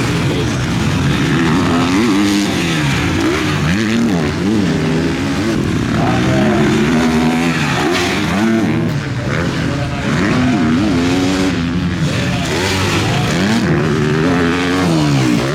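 Several MX2 motocross bikes racing, their engines overlapping as each revs up and drops back again and again through gear changes and throttle bursts.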